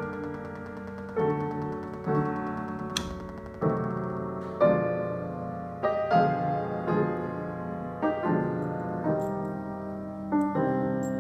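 Piano chords played slowly, each struck and left to ring and fade before the next, about one every one to two seconds.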